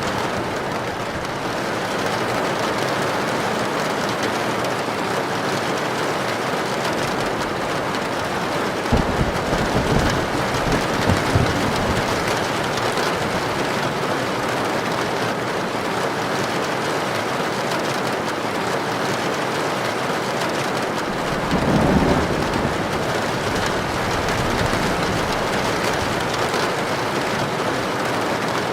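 Heavy rain falling steadily on a tin roof, with thunder: a sudden crackling peal about nine seconds in that lasts a few seconds, and a second deep rumble a little past twenty seconds.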